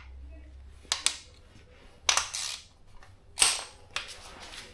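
A series of sharp metallic clinks and knocks, about six spread over a few seconds, the loudest about three and a half seconds in, from tools and metal parts being handled during a motorcycle engine teardown.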